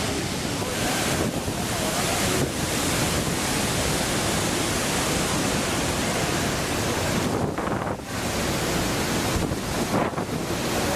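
Steady rushing roar of a large waterfall in monsoon flood, with wind buffeting the microphone. The noise drops briefly twice in the second half.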